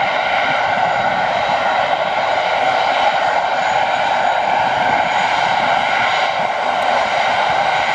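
Airbus A380's turbofan engines running, a loud, steady jet noise with several high whining tones held level throughout.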